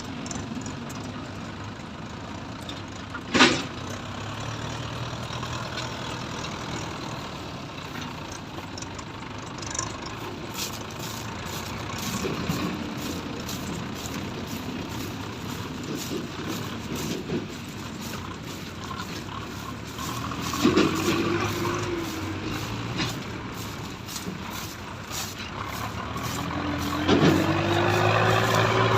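Tractor diesel engine running steadily, its pitch rising and falling a few times as it is revved, with one sharp knock a few seconds in.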